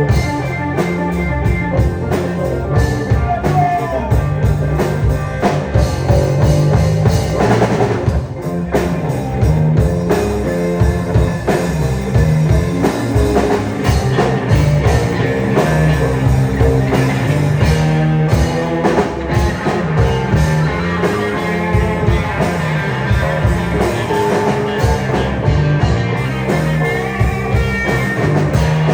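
Rock band playing live, with guitar and a drum kit keeping a steady beat.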